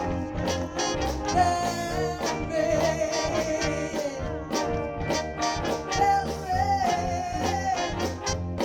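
Live soul band playing an instrumental passage between vocal lines, with a steady drum beat, bass, and a sustained melodic lead line over the band.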